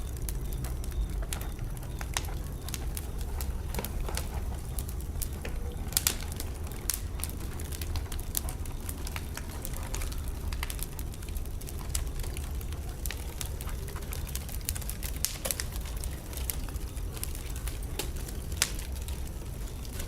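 Wood fire burning in a fireplace, crackling with irregular sharp pops over a steady low rumble, with a couple of louder pops about six seconds in and near the end.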